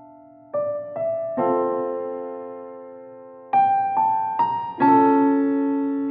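Slow, gentle piano music: three notes or chords struck about half a second apart about half a second in, then another group of four about three and a half seconds in, each left to ring and fade.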